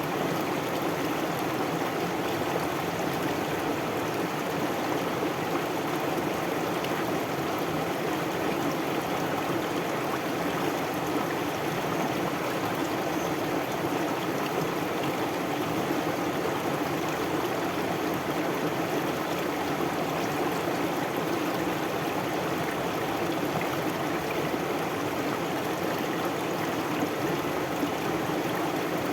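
Stream water flowing steadily over rocks, an even rushing babble with no change in level.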